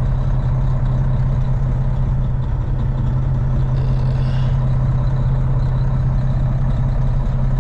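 Semi-truck's diesel engine running steadily at low revs, a constant low drone.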